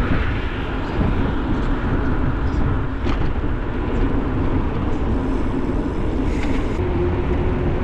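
Wind rushing over the microphone and road noise while riding a bicycle, a steady low rumble throughout. A steady hum joins near the end.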